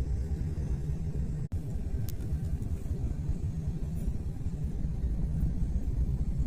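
Moving train running with a steady low rumble, briefly cut out for an instant about a second and a half in.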